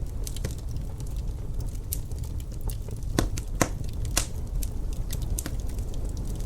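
Wood fire in a fireplace crackling, with irregular sharp pops, the loudest a few about three to four seconds in, over a steady low rumble of wind.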